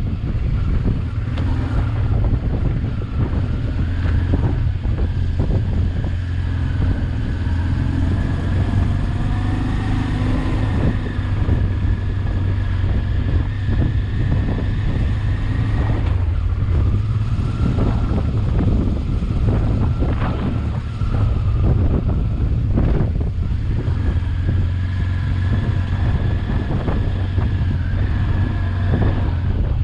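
Honda XL600V Transalp's V-twin engine running steadily at low revs, its pitch drifting up and down a little, with wind on the microphone. Scattered sharp knocks, mostly in the second half, as the bike goes over the rough gravel track.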